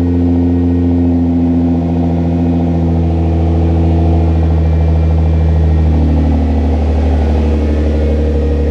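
Nissan GT-R's twin-turbo V6 idling steadily after a cold start on E85, through an aftermarket HKS Legamax exhaust with a non-resonated mid-pipe. The idle settles slightly lower about six seconds in.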